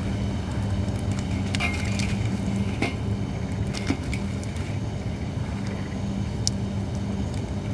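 Holly firewood burning in a campfire, crackling with a few sharp pops spread through, over a steady low hum.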